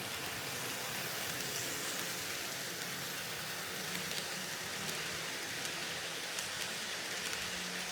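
N scale model train running along the layout track: a steady, faint whirring hiss with a few light ticks from the wheels on the rails.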